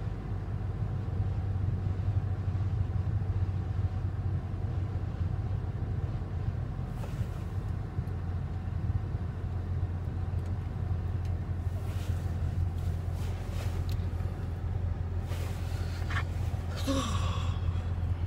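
Car engine running steadily, heard from inside the cabin as a constant low hum, with a few brief rustles.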